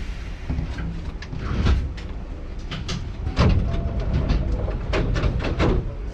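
Hankyu 7000 series electric train running, heard from on board: a steady low rumble with irregular sharp clicks and knocks from the wheels and car body.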